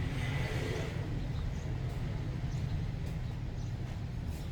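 Steady low hum with faint, scattered bird chirps.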